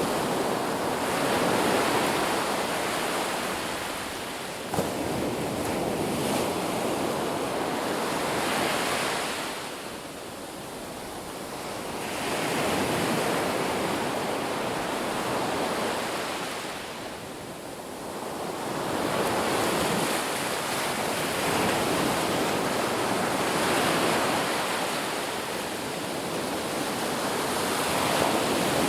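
Ocean surf on a beach: a steady rush of breaking and washing waves that swells and eases, with quieter lulls about ten and seventeen seconds in.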